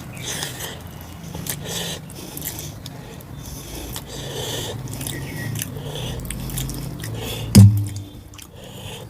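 Close-miked chewing and wet mouth sounds of someone eating mutton curry with rice, with many small clicks and smacks. One loud, dull thump comes about three-quarters of the way through.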